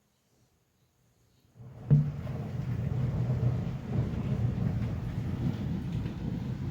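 Thunder: a sharp clap about two seconds in, then a long low rolling rumble that goes on to the end.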